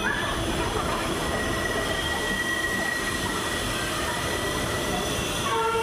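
Passenger train coach rolling slowly through a station, with the steady running noise of its wheels on the rails. A thin, high wheel squeal starts about a second in and fades after a couple of seconds. It is heard from the coach's open doorway.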